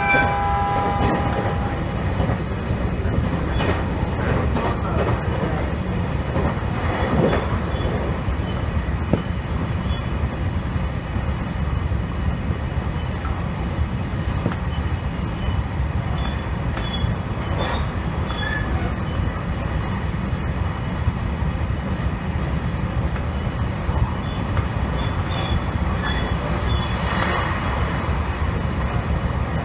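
Train running along the track: a steady rumble with scattered clicks from the wheels over the rails. The train horn's last moment is heard right at the start.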